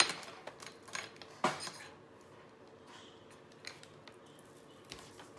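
Sharp plastic clicks and clacks of rubber-stamping supplies being handled on a desk, a small ink pad and a stamp. The loudest click comes at the very start, with two more about a second and a second and a half in, then a few faint taps.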